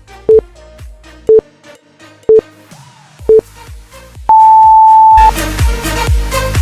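Workout interval timer counting down: four short beeps once a second, then one longer, higher beep about four seconds in that marks the switch to the next exercise. Electronic dance music runs faintly under the beeps and comes back in full right after the long beep.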